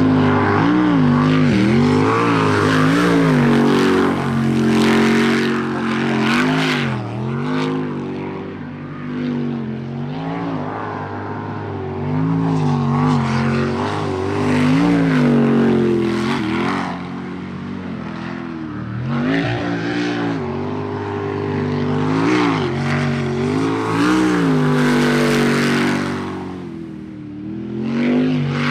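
Sprint boat jet engine racing through the course. The pitch rises and falls again and again as the throttle is opened and backed off through the turns.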